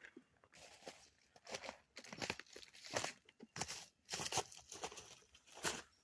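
Footsteps crunching over icy, frozen ground at a steady walking pace, about three steps every two seconds.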